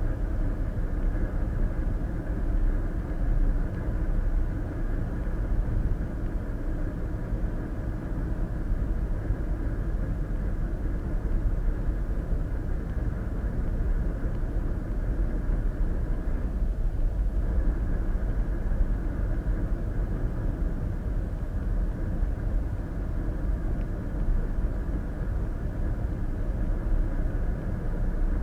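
Steady road noise of a car cruising at highway speed, tyre and engine noise heard inside the cabin through a dash cam's microphone.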